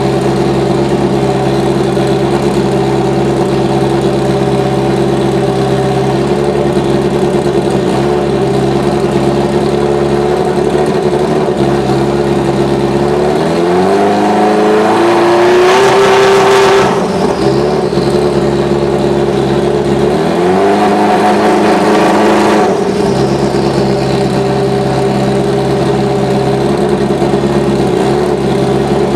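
Subaru Legacy B4 GT300 race car's flat-four boxer engine idling steadily and being blipped twice. About halfway through the revs climb, hold briefly and drop back, and a second, shorter rev follows a few seconds later.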